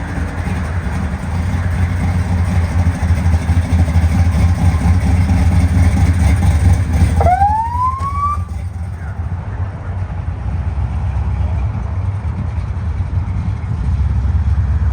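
Low, steady vehicle engine rumble, with a single short rising siren whoop about seven seconds in.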